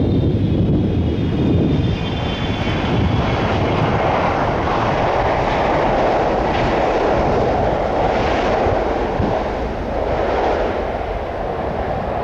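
Jet airliner on final approach passing low overhead, a loud steady rush of jet engine noise as it goes by.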